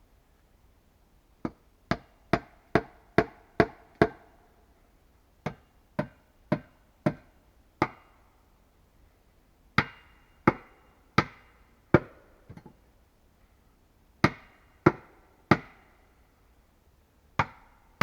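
Wood being struck hard with a hand tool: sharp knocks in quick runs of three to seven blows, each a little under half a second apart, with pauses of a second or two between the runs.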